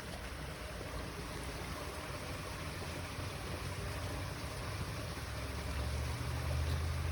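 River water running steadily. A low rumble grows from about six seconds in.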